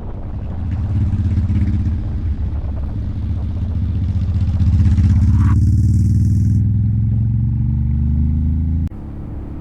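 Motorcycle engine running while riding, getting louder and climbing slowly in pitch as it pulls, then falling off sharply near the end.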